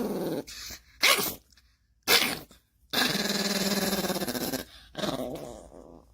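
A dog grumbling and growling in protest at being woken: two short grumbles, then a long drawn-out growl and a shorter one near the end.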